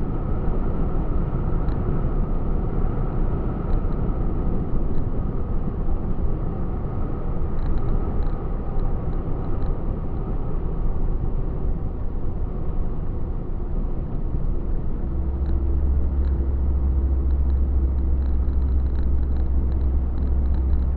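Truck on the road, its engine and tyre noise making a steady rumble. About fifteen seconds in a deep, even hum comes in and holds.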